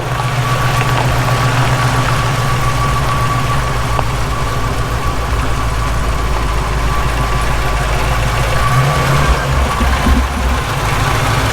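1967 Ford Mustang engine running steadily at a fast idle on its freshly rebuilt carburetor. Near the end the revs rise briefly as the throttle is opened to check whether the carburetor's secondaries open.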